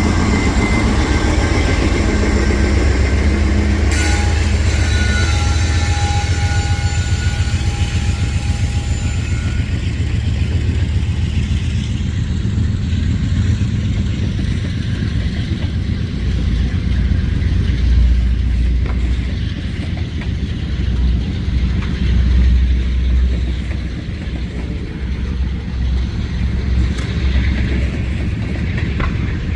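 A train rolling past with a steady low rumble. Thin, steady high-pitched tones sound over roughly the first ten seconds, then die away.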